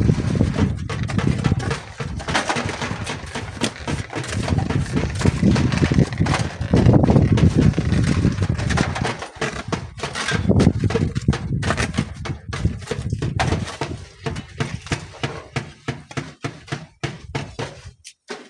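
Strong wind buffeting the microphone in uneven gusts. In the last few seconds it breaks into quick crackles and taps.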